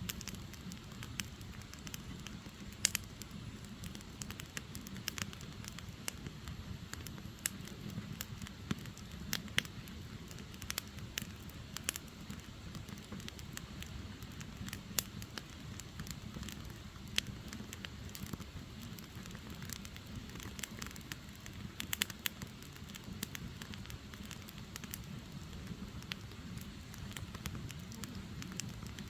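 Firewood logs burning: a steady low rumble of flames with frequent sharp, irregular crackles and pops.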